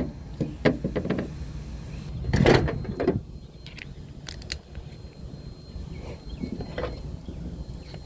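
Scattered clicks and knocks of tools and parts being handled during an oil change, with one louder scrape about two and a half seconds in.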